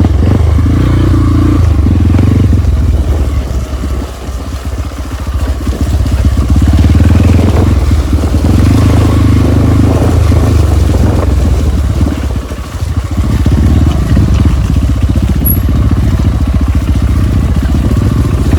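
Trail motorcycle engine running and revving under load, with brief drops in throttle about four seconds in and again around twelve seconds in.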